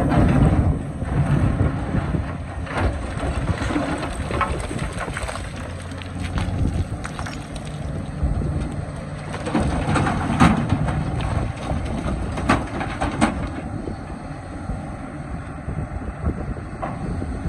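Excavator's diesel engine running steadily under load, with scattered sharp knocks and clanks from the digging.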